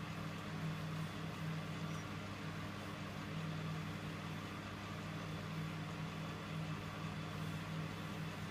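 Electrolux W455H commercial washing machine running early in its Warm 60 wash cycle: a steady low motor hum that holds level throughout.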